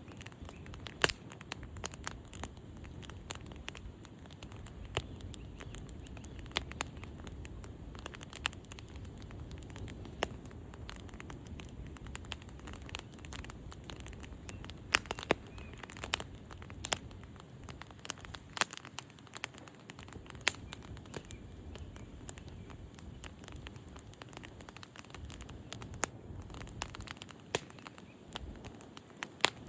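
Campfire burning, the wood crackling with frequent irregular sharp pops over a low, steady rumble of the flames.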